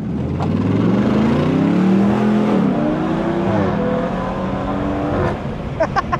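A car accelerating hard, its engine note rising steeply and dropping at the upshifts twice, then holding and falling away about five seconds in. A few short sharp sounds follow near the end.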